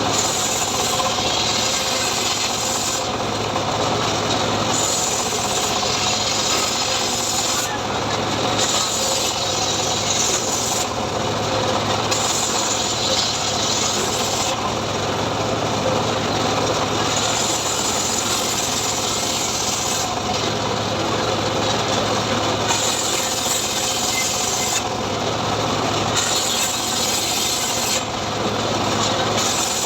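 Homemade engine-driven saw rig ripping sengon wood. A steady engine hum runs under a loud cutting noise that brightens and dulls every one to two seconds as the blade works through the log.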